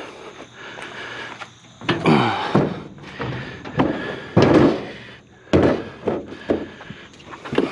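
Clunks and thumps of scrap metal items being handled and set down, about half a dozen knocks from two seconds in, with a short grating scrape at the first one.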